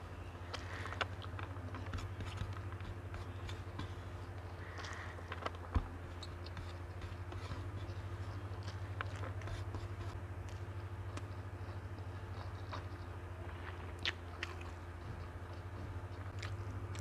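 Close-miked chewing and mouth sounds of someone eating rice by hand, with small clicks of fingers picking grains off a tray and one sharp thump about six seconds in, over a steady low hum.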